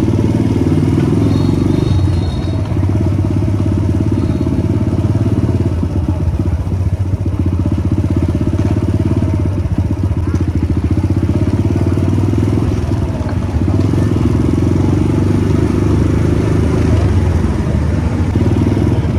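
Motorcycle engine running under way as the bike is ridden, a steady, dense pulsing note that eases slightly a couple of seconds in and picks up again later.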